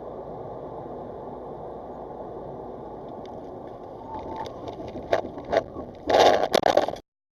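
Steady road and engine noise of a moving car. Scattered knocks start a few seconds in, followed by a loud clattering stretch near the end that cuts off abruptly.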